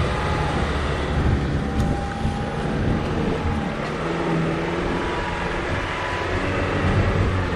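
Off-road four-wheel-drive vehicle's engine running steadily, its pitch wavering as it drives over rough terrain.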